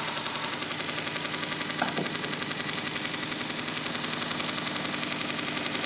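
Small belt sander running with a homemade sanding belt joined by an iron-on fabric patch; the join makes a rapid, even clicking each time it comes round the rollers.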